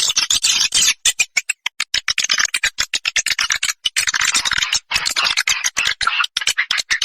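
Swiftlet call sound: a rapid, dense chatter of short chirps and clicks, high-pitched, with brief pauses between runs.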